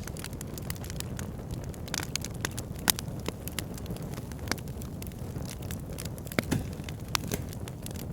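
Backyard fire pit burning, with irregular crackles and pops over a steady low rumble; a few sharper pops stand out about three, six and a half and seven seconds in.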